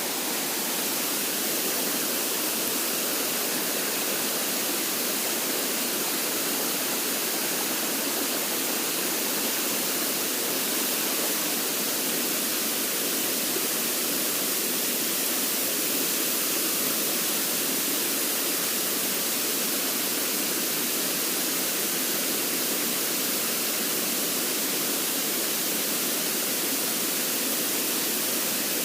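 Steady rush of water in a mountain stream, an even hiss with no breaks.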